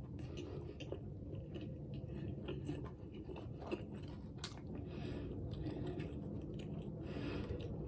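A person chewing a full mouthful of sub sandwich close to the microphone: a steady soft mashing with scattered small wet mouth clicks.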